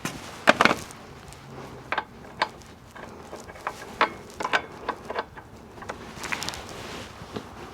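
Irregular metal clinks and knocks of tools being handled and set down, a dozen or so sharp taps spread unevenly, with no steady motor or hammering rhythm.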